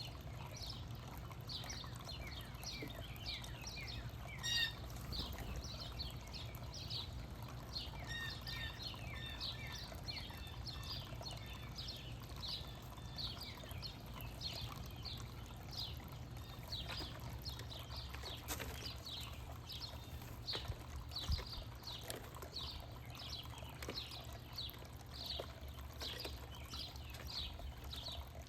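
Small backyard birds chirping over and over, short falling notes about twice a second, with one louder buzzy call about four seconds in, over a steady low hum.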